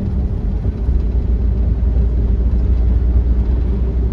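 Car cabin noise while driving: the engine and tyres make a steady low rumble.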